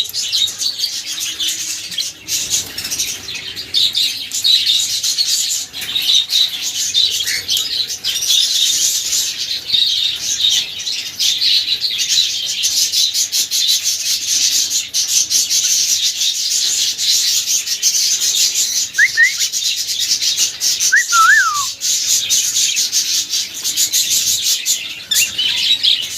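Cockatiel singing: dense, high-pitched chirping and chatter that never stops, with a few short, clear whistled notes gliding up and down about 19 and 21 seconds in.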